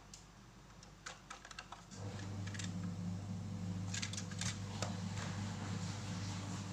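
Light plastic clicks and taps, as of a toy truck being handled. About two seconds in, a steady low hum starts and runs on under a further cluster of clicks.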